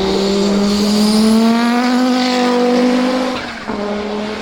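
Audi 200 Quattro Trans-Am race car's turbocharged 2.1-litre five-cylinder engine accelerating hard, its pitch rising steadily. About three and a half seconds in it drops briefly for an upshift, then pulls up again.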